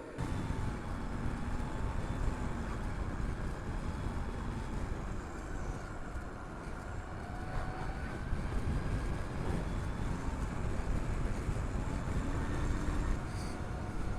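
Harley-Davidson LiveWire electric motorcycle on the move: wind rushing over the rider's helmet-mounted microphone, with the electric motor's faint whine gliding up and down in pitch as speed changes.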